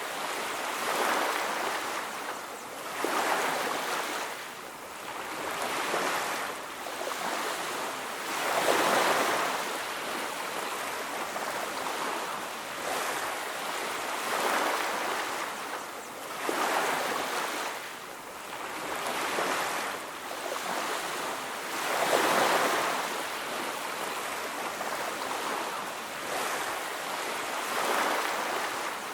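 Ocean waves breaking and washing on a beach, a rushing noise that swells and falls every couple of seconds, with larger waves about 9 and 22 seconds in.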